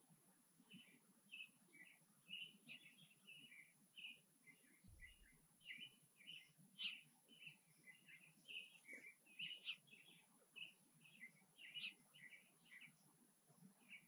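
Small songbirds chirping faintly in the background, a quick run of short, high chirps several times a second throughout.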